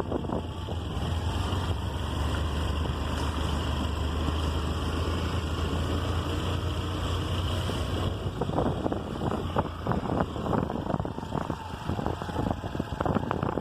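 Motorbike riding along a street, with wind buffeting the microphone: a steady low engine drone for the first several seconds, then irregular knocks and crackles from about eight seconds in.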